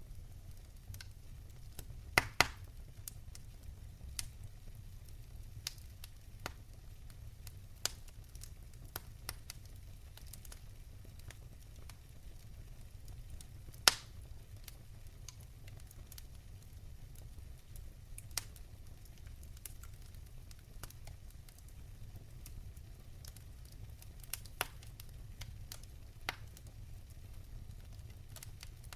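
Wood fire in a fireplace crackling: sharp, irregular pops over a steady low rumble of the flames, with a loud double pop about two seconds in and another loud pop about halfway through.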